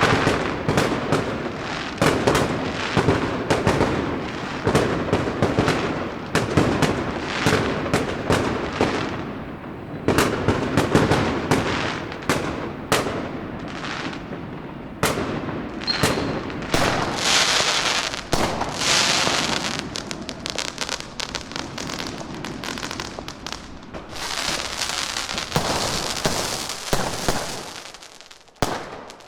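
Fireworks going off in rapid, irregular succession: a dense run of sharp bangs and cracks, with a stretch of higher sizzling crackle in the middle, dying away near the end.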